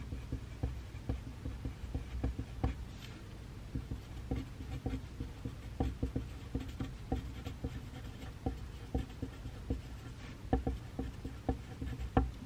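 Pencil writing on paper: irregular light taps and scratches of the strokes, several a second, with small knocks on the desk.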